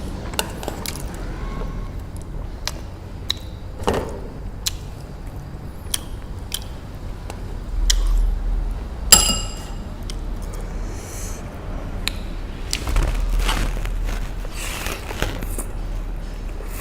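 Eating sounds: utensils click and scrape against a bowl again and again, with one ringing clink about nine seconds in.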